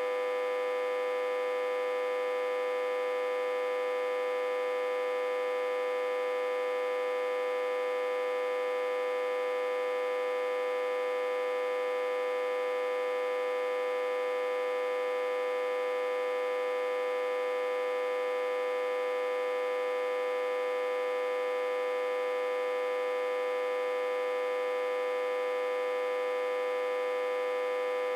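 Autotransformer humming steadily on one unchanging pitch with many overtones above it, driven back-to-front through a step-down transformer at about 60 to 80 volts input.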